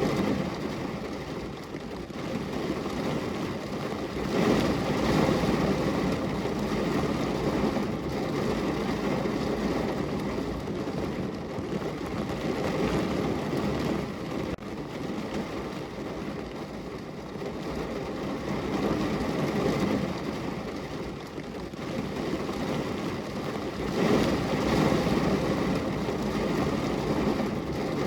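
Heavy rain falling on a car's roof and body, heard from inside the car: a steady hiss of drops that swells louder a few seconds in and again near the end, easing in between.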